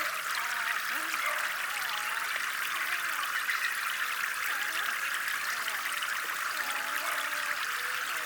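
Steady trickle of water flowing into a small pond, with faint short whines gliding up and down in pitch over it.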